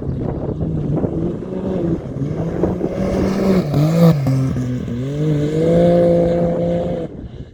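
Off-road motorcycle engine running under throttle. Its pitch dips briefly near the middle, then rises as it revs up and holds high before cutting off sharply near the end.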